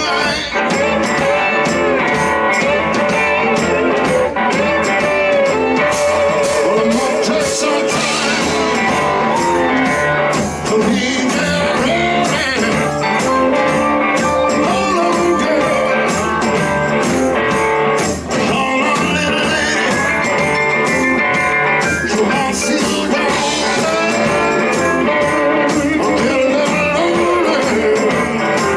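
Live blues-rock band playing with a steady beat, guitar and singing.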